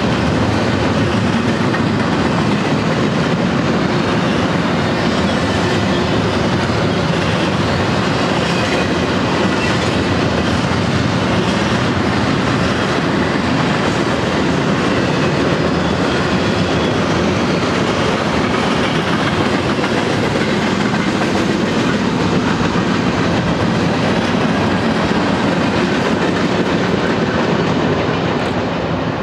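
Double-stack intermodal freight train's well cars rolling past close by: a steady, loud clatter of steel wheels on rail. The sound falls off a little near the end as the tail of the train, a Herzog maintenance-of-way machine, goes by.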